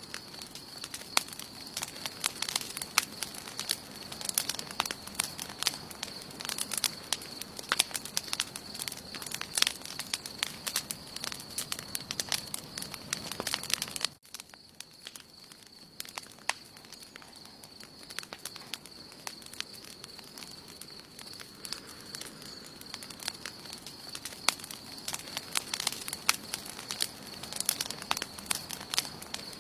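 Campfire burning, with dense crackling and popping of burning wood over a steady faint high-pitched tone. About halfway through the crackling drops off suddenly, then builds back up.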